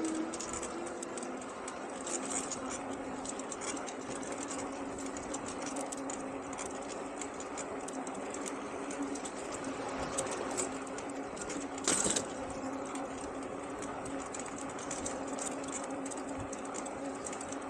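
Engwe Engine Pro e-bike's 750 W rear hub motor humming at a steady pitch while riding, over road and wind noise. A short loud rush comes about twelve seconds in.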